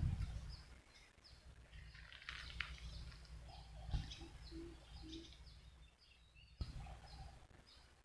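Wild birds calling, short high chirps repeated over and over, above a faint steady low rumble. Two soft knocks stand out, one about four seconds in and one later.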